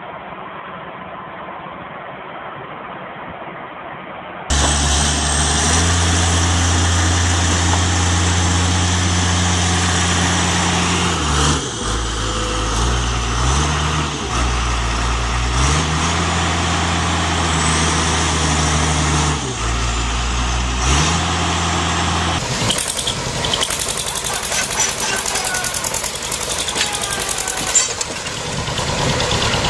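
Heavy vehicle engine running under load, its low pitch dropping and picking up again several times. The engine is joined by noisy mechanical clatter toward the end.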